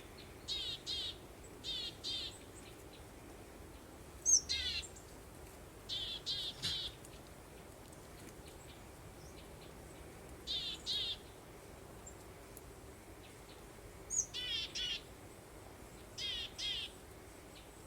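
Songbird singing: short, high trilled phrases, often two in quick succession, repeated every few seconds over a steady soft breeze hiss.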